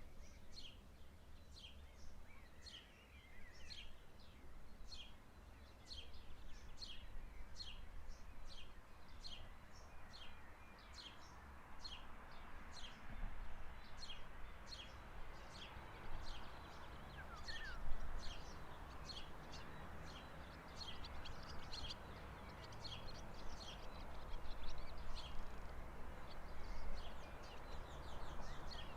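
A songbird repeating a short, high chirp that drops in pitch, about three chirps every two seconds, over a steady low rumble.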